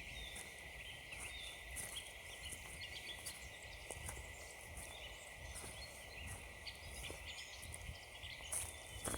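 Footsteps crunching on frozen ground and leaves at a walking pace, a series of short uneven crunches, with small birds chirping faintly in the background.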